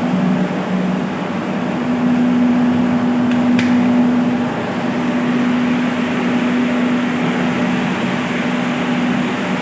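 Electric water pumps running steadily in an underground tank room, a constant hum with a rushing noise over it.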